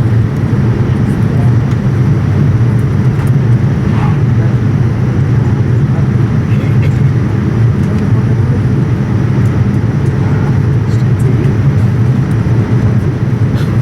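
Steady cabin drone of a Boeing 787-9 airliner in flight: engine and airflow noise with an even, low rumble that does not change, and a few faint ticks.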